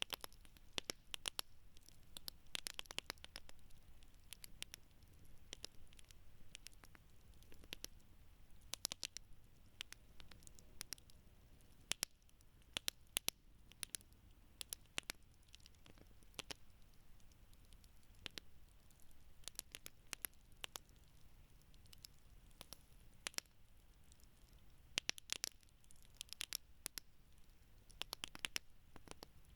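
Wood campfire burning, with irregular sharp crackles and snaps of burning wood, some coming in quick clusters, over a faint low hiss.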